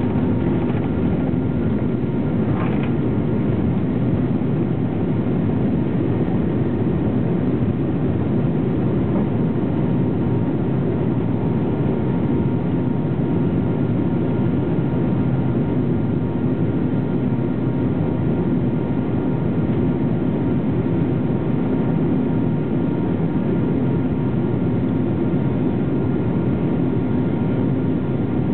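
Steady engine and air noise of a Boeing 777-200ER heard inside the passenger cabin: an even low rumble with a faint high whine held steady above it.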